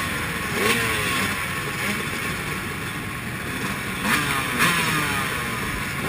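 Motocross motorcycles racing round a track, their engines revving up and down. Two louder swells come as bikes rev harder, about a second in and again about four seconds in.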